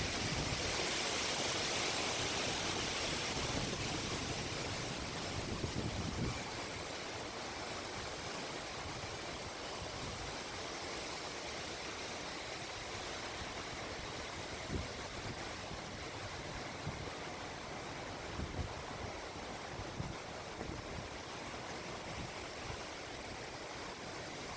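Steady rushing noise of a thunderstorm, louder and brighter for the first few seconds, with a few brief low thumps further on.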